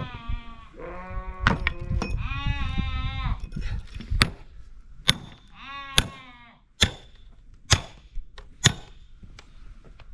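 Small livestock from a nomad flock bleating: three quavering bleats in the first seven seconds. Sharp knocks or snaps come about once a second through the second half.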